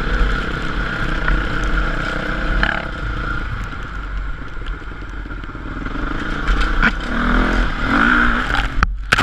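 Motocross dirt bike engine running steadily, with clattering and a constant low rumble underneath.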